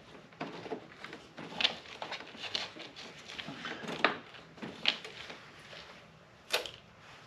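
Irregular clicks, taps and light knocks of hands and tools working small metal parts of a garden tractor's carburetor and throttle linkage, with a few sharper clacks spread through and faint rustling between them.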